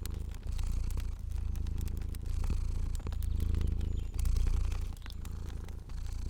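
Domestic cat purring, a steady low rumble that swells and eases about once a second with its breathing, with the sharp pops and crackles of a wood fire scattered over it.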